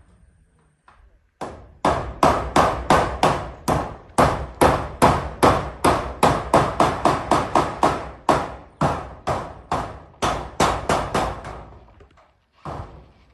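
Hammer driving nails with quick repeated blows, about three a second, for roughly ten seconds with a couple of short pauses.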